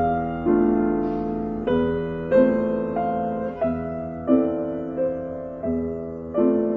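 Instrumental piano music: slow chords struck one after another, each ringing and fading before the next.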